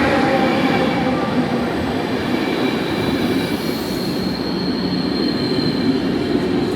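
ÖBB regional express train pulling into the station, its wheels and brakes squealing in several steady high tones over the rumble of the cars.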